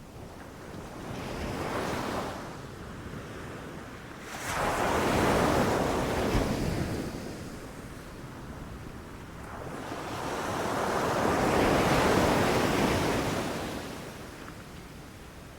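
Ocean waves breaking and washing up a beach in slow surges: a small one about a second in, a larger one at about four and a half seconds, and another that builds around ten seconds and fades near the end.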